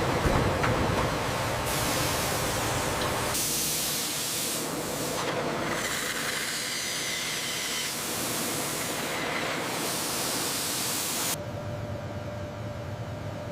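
Loud, steady hissing noise of the kind made by steam or spray. It changes in character abruptly several times, then drops to a quieter low hum about eleven seconds in.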